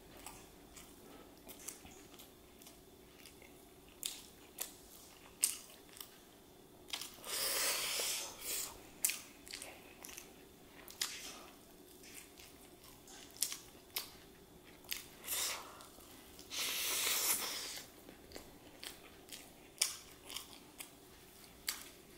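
Close-miked eating of a fried chicken leg: biting and chewing with many short, wet mouth clicks, and twice a longer hissing sound, about 7 and 17 seconds in.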